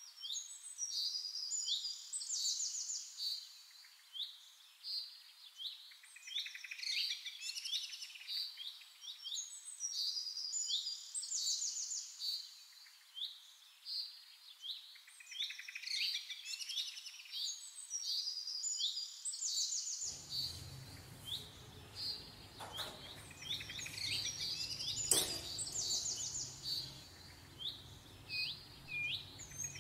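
Small birds chirping and twittering in quick, repeated high phrases and short trills. About twenty seconds in, a low steady hum comes in beneath them, with a couple of faint knocks.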